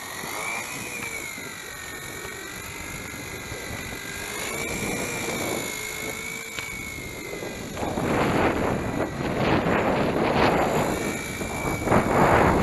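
Small electric RC helicopter in flight, its motor and rotor whine wavering up and down in pitch as throttle and load change in the wind. From about eight seconds in, strong gusts of wind rush over the microphone, the loudest sound near the end.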